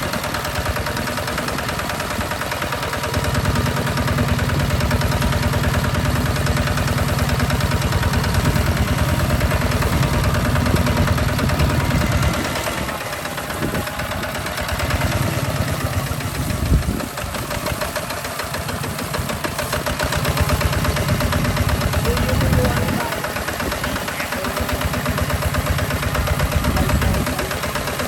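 Hinota HG Gold 155 DI tractor diesel engine running with an even chugging pulse while plowing sandy soil, growing louder and easing off in stretches of several seconds as the load changes. There is a single knock about two thirds of the way through.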